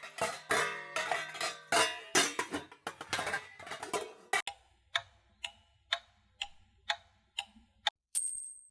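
Clock ticking, about two ticks a second, eight ticks in all, following the tail of a busy run of struck musical notes in the first half. A brief high ring near the end, like a timer bell. Stock stop-motion sound effects played back to back.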